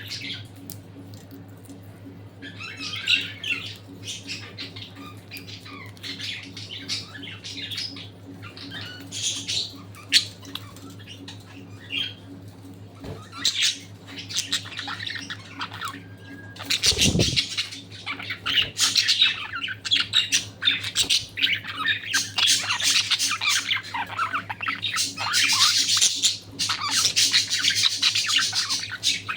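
A flock of budgerigars chattering and squawking, sparse at first and much busier from about halfway through, over a steady low hum.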